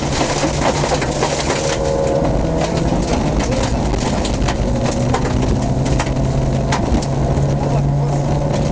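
Off-road car's engine running steadily under load, heard from inside the cab, with frequent rattles and knocks from the body jolting over a rutted dirt track.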